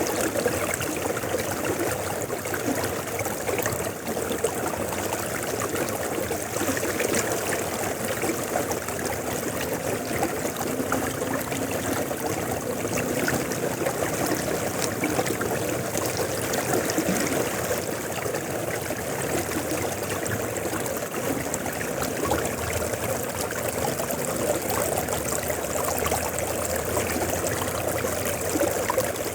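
River water flowing steadily over stones, a continuous babbling rush with fine trickling detail.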